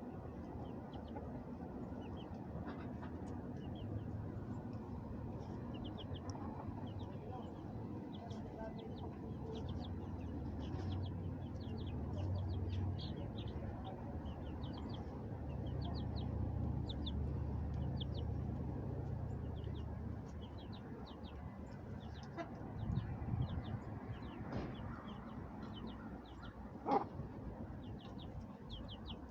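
Chickens and roosters in a coop with many short, high chirps running throughout over a steady low rumble. There is one sharp click near the end.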